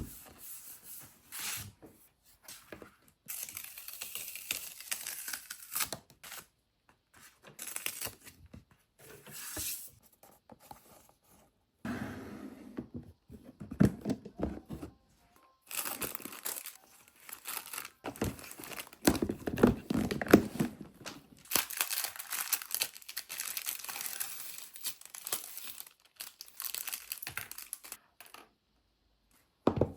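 Hand handling of paper or plastic, tearing and crinkling in irregular bursts with short pauses.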